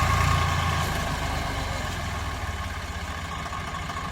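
Tractor engine running, louder in the first second and a half, then settling to a steady, lower, pulsing idle.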